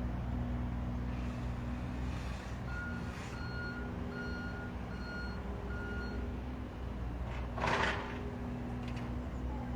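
A construction vehicle's reversing alarm beeping five times at an even pace over its running engine's steady low hum. A short hiss comes about three-quarters of the way in.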